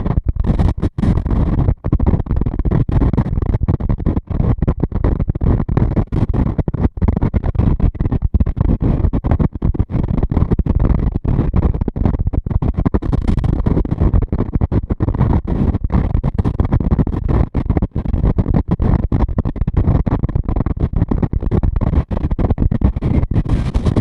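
Strong wind buffeting the microphone on a ferry's open deck: loud, rumbling, irregular noise with frequent brief dropouts.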